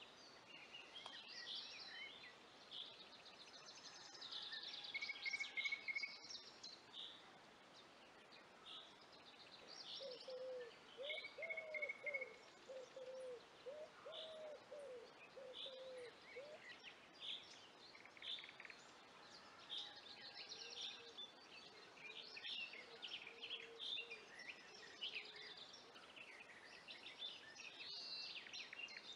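Faint woodland birdsong: several songbirds giving short high chirps and trills throughout. From about ten seconds in, a series of lower, arched calls repeats for several seconds, and returns more faintly later.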